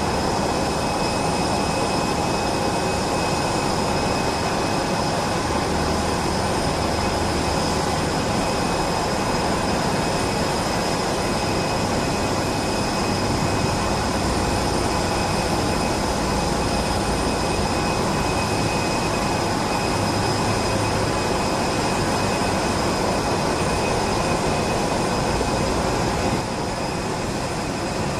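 Boeing 757-200's Pratt & Whitney PW2000-series turbofans at takeoff power: a steady, loud jet rush with several high, steady fan whines on top. The level eases slightly near the end.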